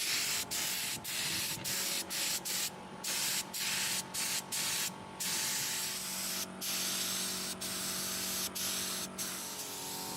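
Compressed-air spray gun hissing in short bursts with brief pauses, then spraying more steadily in the second half, as the bus body is sprayed ahead of painting.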